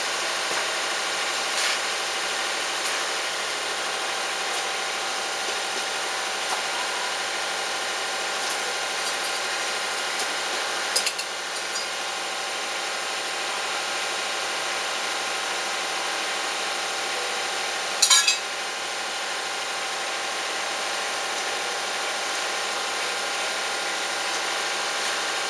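An engine running steadily at idle, with two short sharp knocks standing out over it, one near the middle and one about two-thirds through.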